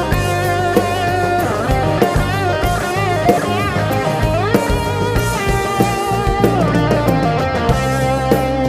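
Live rock band playing an instrumental passage: a lead electric guitar with bending, wavering notes over drum kit and bass.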